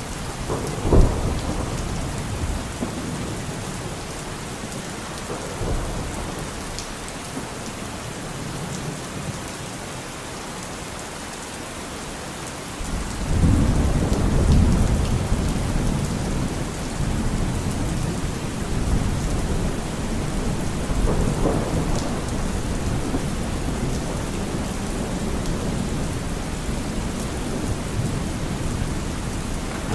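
Steady rain falling during a thunderstorm: a sharp low thunderclap about a second in, then a long rolling rumble of thunder starting about halfway through and fading slowly.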